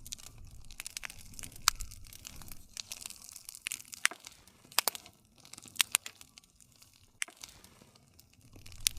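Campfire crackling: irregular sharp pops and snaps from burning wood, a few a second, over a soft low rush of the flames. The low rush drops away about halfway through and comes back near the end.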